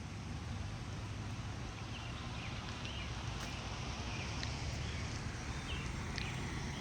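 Birds chirping briefly several times over a steady low rumble.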